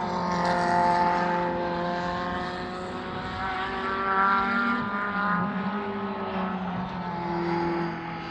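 Engines of several race cars running together, their tones overlapping and holding fairly steady with slight drifts in pitch, swelling louder about a second in, around the middle and near the end.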